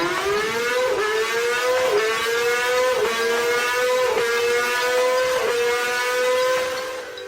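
Liter-class sportbike engine at high revs, its pitch finishing a climb and then holding near the top with a brief dip about once a second. The sound fades near the end.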